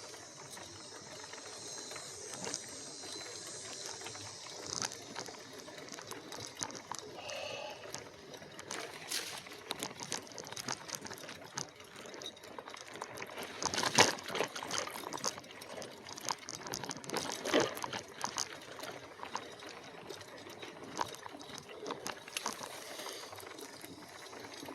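E-bike riding along a rough trail: continuous tyre noise with irregular rattles and knocks from the bike, and a hard jolt about 14 seconds in.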